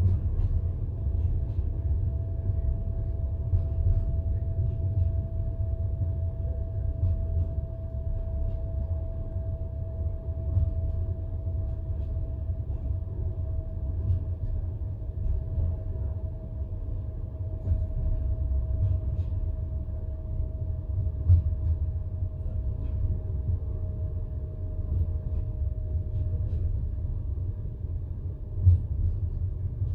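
Passenger train carriage rolling along the track, heard from inside: a steady low rumble of the wheels on the rails, with a louder knock about two-thirds of the way through and another near the end. A faint steady whine sinks slowly in pitch throughout.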